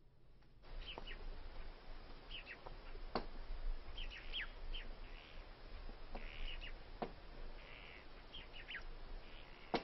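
Outdoor ambience of small birds chirping: many short, quick, downward-sliding chirps, with a few sharp taps among them.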